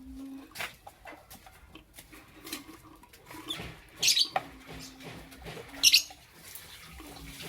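Lovebirds giving short, high-pitched chirps, with two louder bursts of chirping about four and six seconds in, amid scattered light ticks and scratches.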